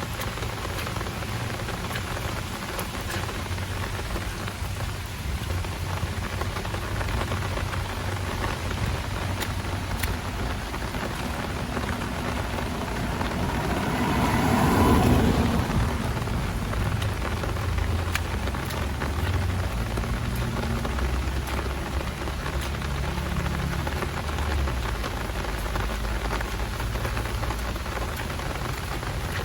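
Heavy rain falling steadily, with a low rumble underneath. About halfway through, a louder sound swells and fades over a couple of seconds, like something passing by on the wet street.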